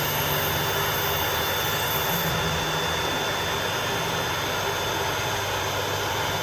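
ReSharp automated knife-sharpening machine grinding a knife edge: a steady whirring rush with a thin high whine through it. A very high hiss drops away a little over two seconds in while the machine keeps running.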